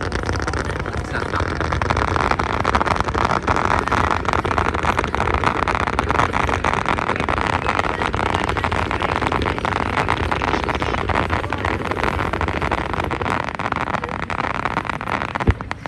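Fireworks display: a dense, continuous crackle of many small bursts over a steady low rumble.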